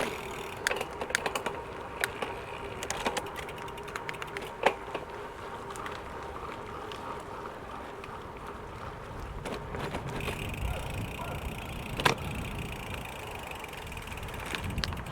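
Gravel bike rolling, with tyre noise and scattered sharp clicks and knocks from the bike jolting over a railway crossing, a cluster of them about a second in and a louder single knock near the end.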